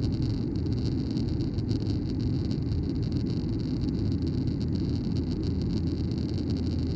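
Steady cabin noise of a Boeing 737-900ER in flight: a constant low roar of engines and airflow with a fainter hiss above it.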